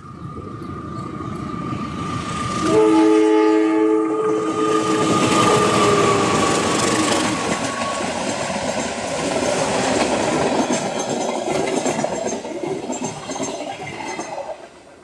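CC 204 diesel-electric locomotive sounding one long horn blast about three seconds in, then a passenger train rolling past close by with wheels clattering over the rail joints. The noise fades away near the end.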